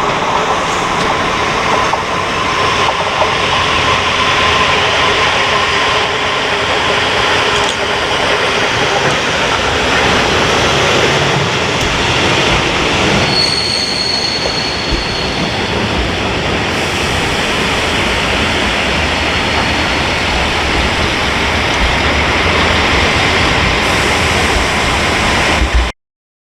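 Train running on the rails, a steady loud rolling noise with a brief high wheel squeal about halfway through; it cuts off suddenly near the end.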